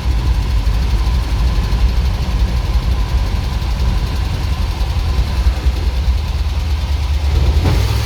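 ZIL truck's petrol engine idling with an uneven, pulsing beat. The engine is mistuned in ignition and carburettor, the cause of its backfiring and lack of power.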